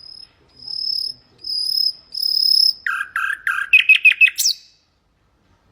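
Common nightingale singing: four long whistled notes on one high pitch, growing louder, then a quick series of lower notes and a faster run of higher ones, ending in a sharp upward flick.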